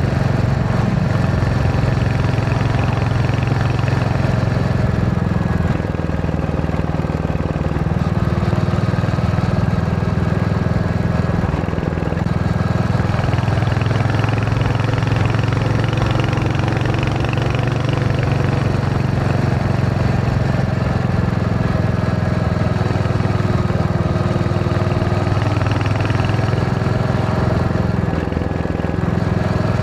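Royal Enfield Hunter 350's single-cylinder engine running steadily under way, easing off briefly a few times.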